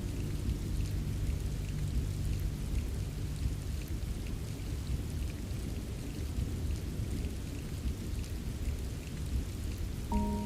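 Steady rain falling, with a low rumble underneath and scattered drop ticks. A few soft pitched music notes come in near the end.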